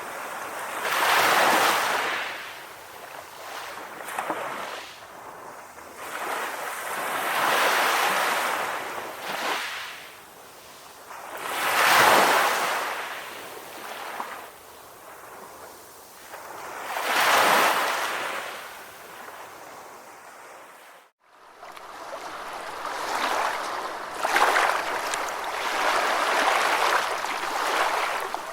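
Ocean waves breaking and washing in, each wave swelling and fading about every four to five seconds. The sound drops out for a moment about three-quarters of the way in, then returns as a longer, steadier wash of surf.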